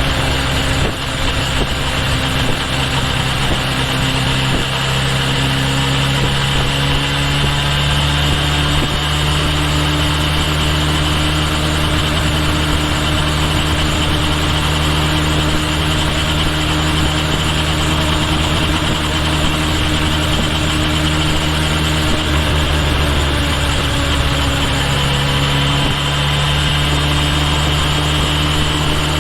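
Kawasaki Ninja H2 SX motorcycle's supercharged inline-four engine running steadily, its pitch shifting slightly a few seconds in and again near the end, over steady road and wind noise.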